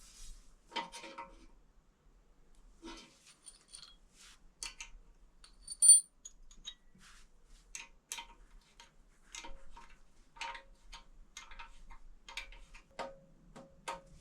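Metal parts and tools being handled: irregular small clicks and clinks, some ringing briefly, with one sharp ringing clink about six seconds in.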